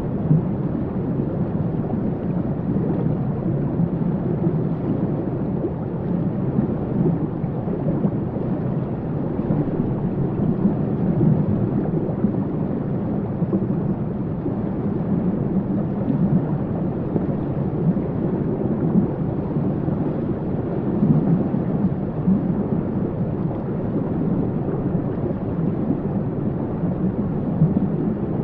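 Waterfall: a steady, deep rush of falling water that goes on without a break.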